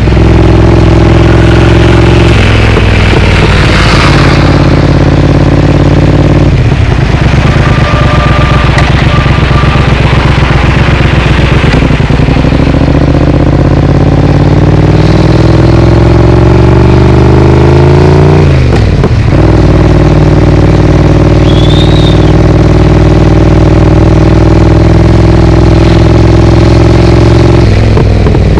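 Triumph Speed Twin parallel-twin engine through a Vance & Hines aftermarket exhaust, riding in traffic. The engine note steps through several gear changes, with one long climb in revs through the middle.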